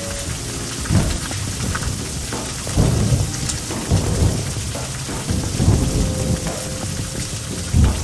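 Steady heavy rain during a thunderstorm, with short low rumbles surging up every second or two.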